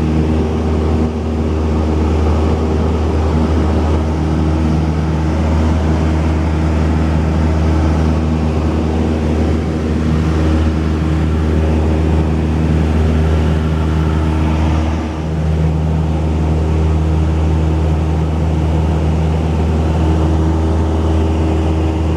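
Cessna 172 piston engine and propeller droning steadily in flight, with a brief dip in loudness about fifteen seconds in.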